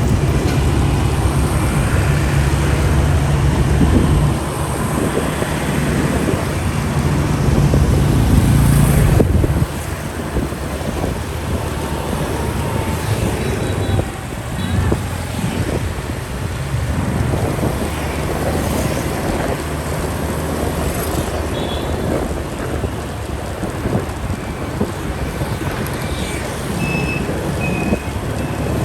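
Motorcycle engine running and road and wind noise while riding in traffic. The engine builds to a peak and then drops off sharply about nine seconds in.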